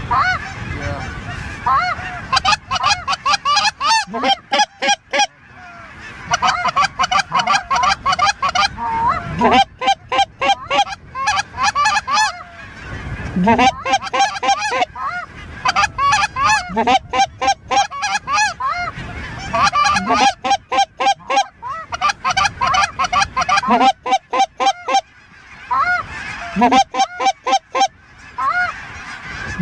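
Geese honking and clucking in rapid runs of several seconds with short breaks between, over a continuous chatter of more calling. This is hunters on goose calls working an incoming flock.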